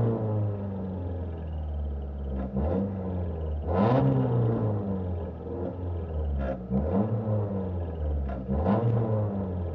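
Renault Mégane rally car's engine idling at a standstill, with the throttle blipped several times so the revs rise sharply and fall back to idle.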